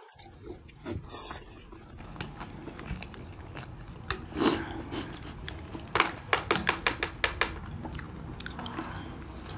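Close-miked chewing and biting of steamed momo dumplings by several people eating at once, with many short mouth clicks that are busiest about six to seven and a half seconds in.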